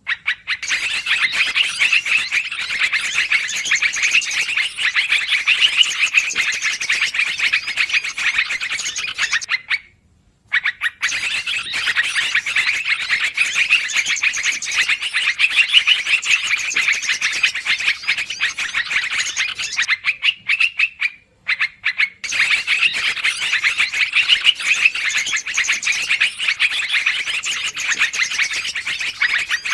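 Yellow-vented bulbuls (trucukan) chattering noisily in a rapid, continuous stream of calls, a looped bird-lure recording. The calling breaks off briefly about ten seconds in and again about twenty-one seconds in.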